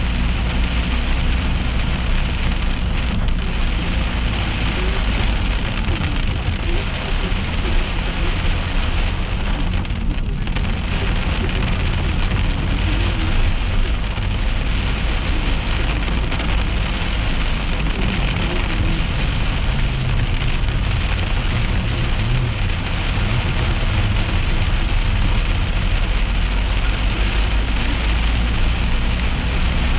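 Heavy rain falling steadily on a car, heard from inside the cabin over the low rumble of the car driving.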